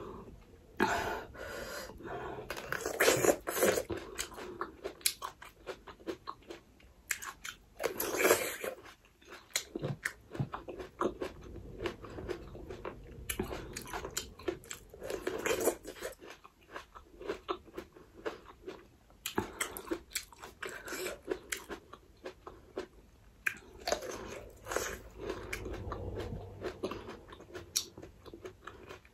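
A person chewing and biting food with wet mouth smacks, coming on and off in irregular bursts.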